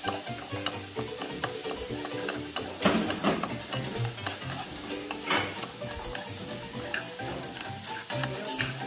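Food sizzling as it is stir-fried in a nonstick frying pan, a utensil scraping and tapping against the pan, with two louder strokes about three and five seconds in.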